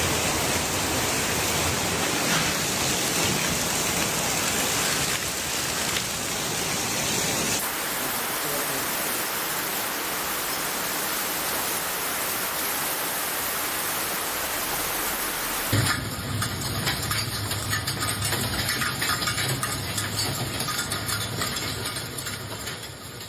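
Heavy rain pouring down as a steady hiss, changing character abruptly about five, eight and sixteen seconds in. From about sixteen seconds on it becomes a crackling patter of drops over a low hum, and it fades out at the end.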